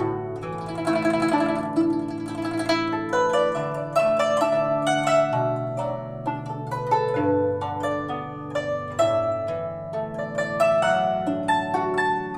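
Guzheng (Chinese zither) playing a melody: plucked notes ringing over held low notes, with a flurry of rapid plucks about one to three seconds in.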